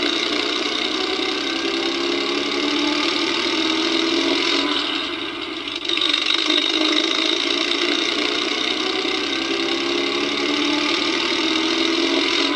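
Electronic vintage engine sound effect from a Hess toy truck, played through its small built-in speaker: a recorded old motor running steadily, with no deep bass. About five seconds in it dies down, then starts up again abruptly a second later.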